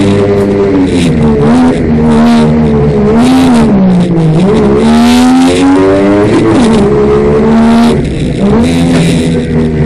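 Rally car engine heard loud from inside the cabin, its revs rising and falling as it is driven hard round a tight asphalt course. The engine note drops and climbs again through a sharp corner about four seconds in, and keeps running throughout.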